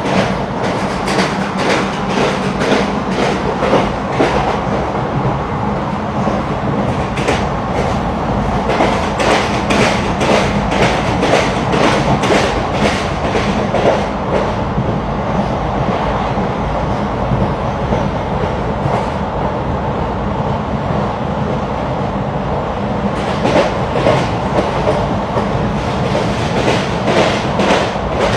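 Passenger train running, heard from inside the carriage: a steady rumble with runs of quick clacks as the wheels cross rail joints, and a smoother stretch in the middle.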